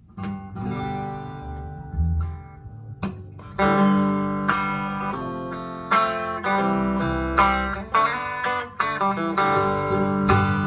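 Acoustic guitar playing the instrumental intro to a folk-country song: a few sparse picked notes at first, then full strummed chords from about four seconds in.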